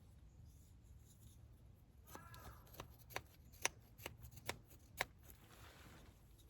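Light rustling with a run of about eight sharp clicks over some three seconds, starting about two seconds in.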